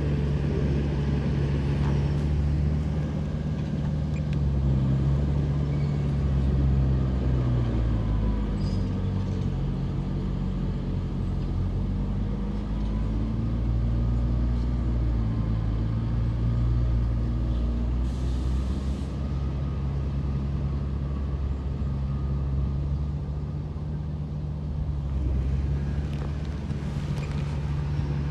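Diesel engines of heavy earthmoving machinery, a bulldozer and dump trucks, running under load; the engine note sags and rises again as the machines work. A brief hiss about two-thirds of the way through.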